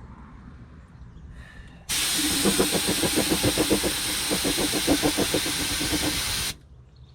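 Air-powered undercoating spray gun triggered about two seconds in, spraying rubberized undercoating in one loud hiss with a rapid fluttering underneath, then released sharply after about four and a half seconds.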